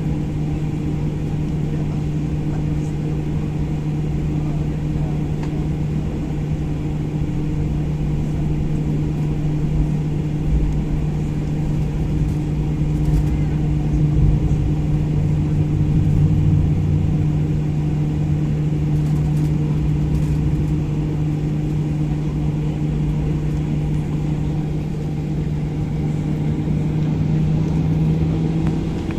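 Airliner cabin during takeoff: jet engines and airflow make a steady low rumble with a constant hum, with a few low bumps partway through and the hum rising slightly in pitch near the end.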